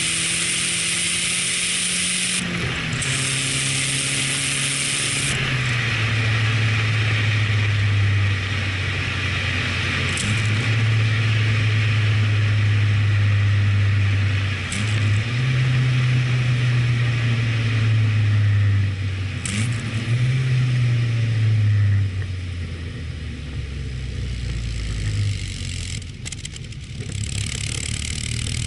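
1985 Nissan Silvia S12's CA18ET turbocharged 1.8-litre four-cylinder running through its exhaust, held at raised revs. The engine note steps up and down between steady levels several times, dropping lower for the last few seconds.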